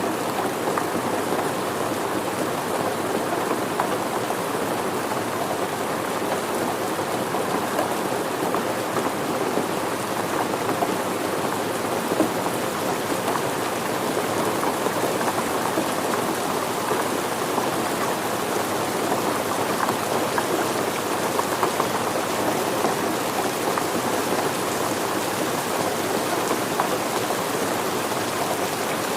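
Steady rain falling, with a dense patter of raindrops on surfaces.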